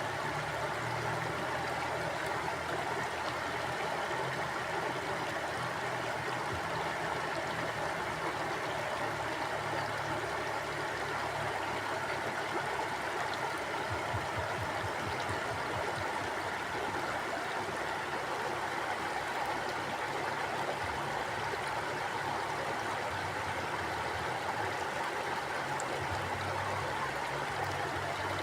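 Mountain stream flowing over rocks: a steady rushing of water.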